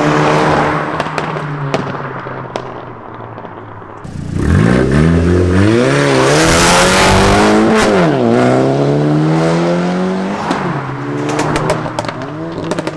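Car engine dying away, then a hard launch about four seconds in: revs climb fast and drop back twice as it shifts up through the gears, then hold steady. Near the end the exhaust crackles and pops repeatedly as the driver lifts off.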